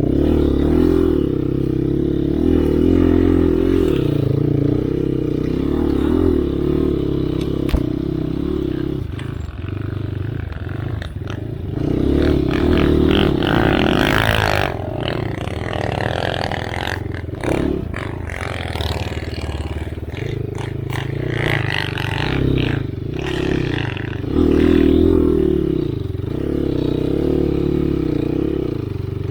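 Enduro dirt bike engine revving and easing off again and again as it climbs across snowy slopes, with a burst of clatter about fourteen seconds in.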